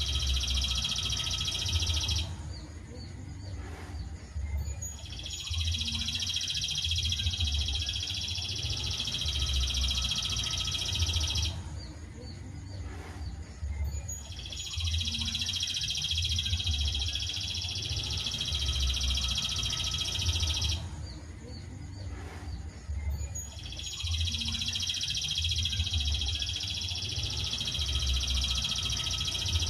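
Looped songbird-training recording: a long, dense, high-pitched trill lasts about six seconds, pauses for about three seconds while faint chirps continue, then starts again, repeating evenly three times over a low rumble.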